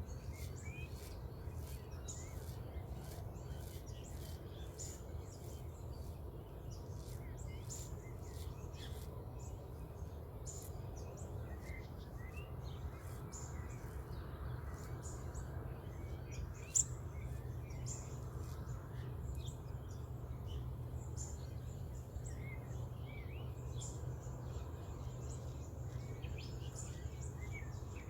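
Wild birds chirping at dawn, short calls and little pitch glides scattered through, over a steady low background rumble. A single sharp click sounds about 17 seconds in.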